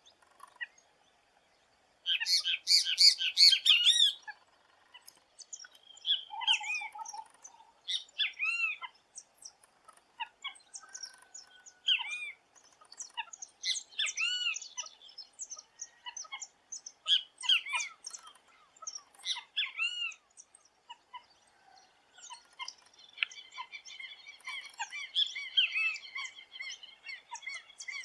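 Great kiskadee (bem-te-vi) calling: loud, clear calls made of arched notes, repeated every second or two, with a dense flurry of calls a couple of seconds in and a run of quicker notes near the end.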